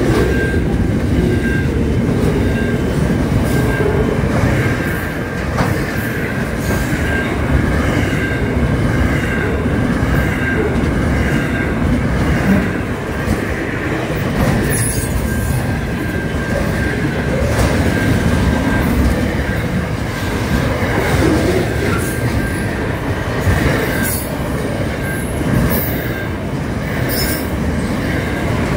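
Double-stack container freight train passing close by at speed: a continuous rumble of steel wheels on the rails. Over it runs a thin, high wheel squeal that comes and goes, and a few sharp clicks sound in the second half.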